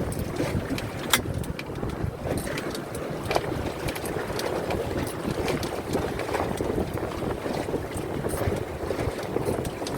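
Gusty wind rumbling on the microphone aboard a small boat, with water slapping at the hull. A few sharp knocks stand out, the loudest about a second in.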